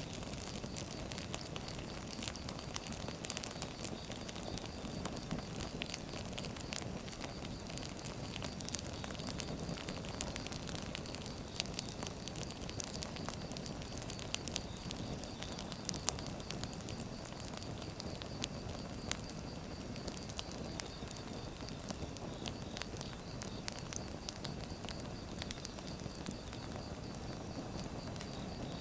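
Firewood burning in a fire, crackling with frequent sharp pops over a steady low rush.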